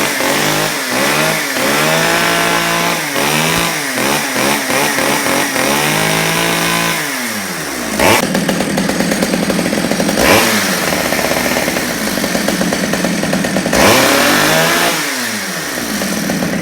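Stihl 009L two-stroke chainsaw running: the engine is blipped up and down several times, drops back, then is held at high revs for several seconds before falling back near the end.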